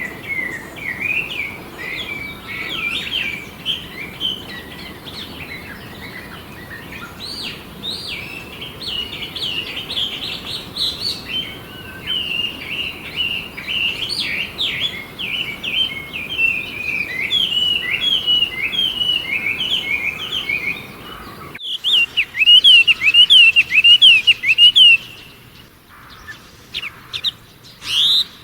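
Small songbirds chirping in a dense, overlapping run of short calls. After a break about 22 seconds in, a single bird gives a quick series of sharp, louder falling notes.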